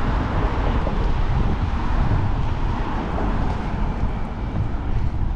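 Steady outdoor street noise with wind rumbling on the microphone.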